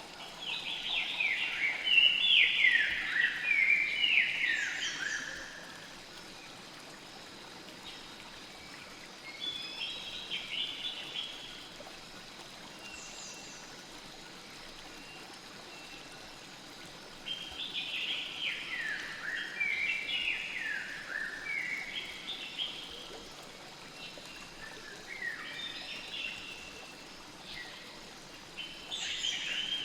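Birdsong in bursts of quick, falling chirps that come and go several times, over a steady hiss of flowing river water.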